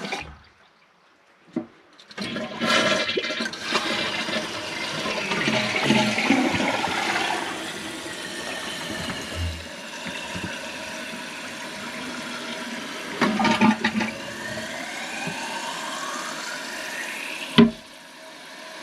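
Toilet flushing: a loud rush of water emptying the bowl, then the tank refilling with a steady hiss whose tone slowly rises. A sharp click comes near the end, and the sound drops away after it.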